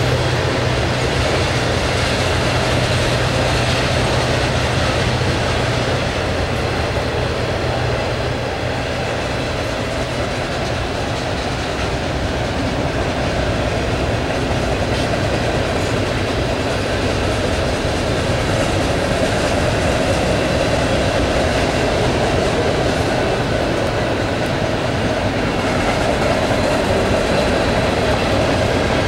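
Freight cars of a long freight train rolling past on steel wheels, a steady loud rumble and rattle from the rails.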